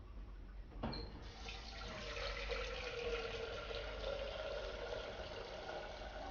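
Water running from a tap into a vessel, filling it. A click about a second in is the tap opening, and the tone of the filling vessel rises slowly as it fills.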